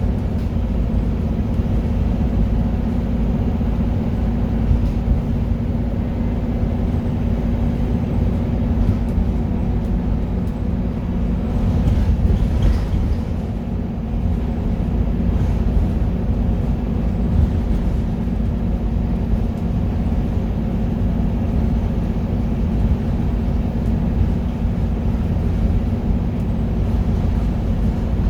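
Scania K230UB Euro 4 city bus running steadily, a continuous low engine and drivetrain drone with road noise. There is a brief clatter about twelve seconds in.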